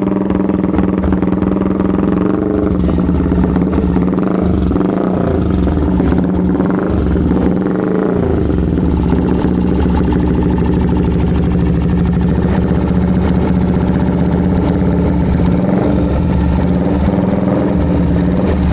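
Motorcycle engine running steadily through an aftermarket racing exhaust, a loud, even exhaust note that holds the same pitch throughout.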